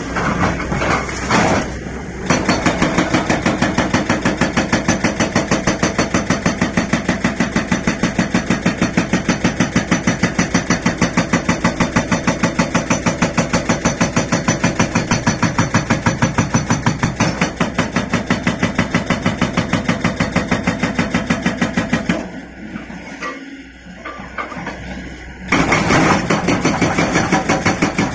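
Excavator-mounted hydraulic rock breaker hammering in rapid, even blows over the running diesel engine of a Liugong 921DI excavator. The blows stop for about three seconds near the end, then start again.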